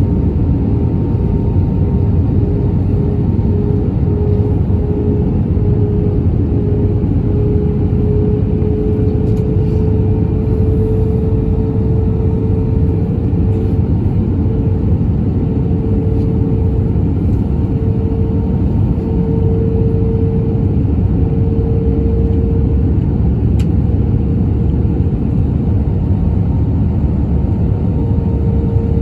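Airbus A320neo cabin noise during descent: a steady low rumble of engines and airflow, with a steady hum that rises slightly in pitch about ten seconds in.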